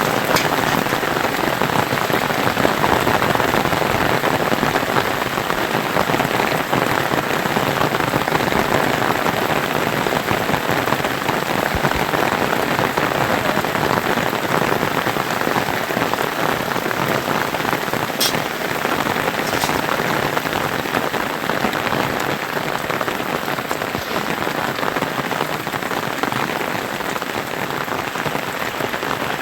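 Steady heavy rain falling, an even dense hiss, with a couple of sharper drip ticks about two-thirds of the way through.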